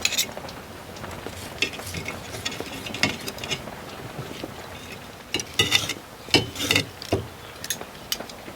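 Cutlery and crockery clinking and knocking as things are handled, with a burst of sharp ringing clinks about five and a half to seven seconds in.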